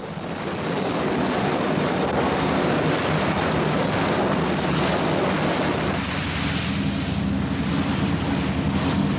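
Wind buffeting the microphone and water rushing past the hull of a patrol boat running at speed, with a steady low engine drone underneath. The rushing swells up over the first second and then holds steady.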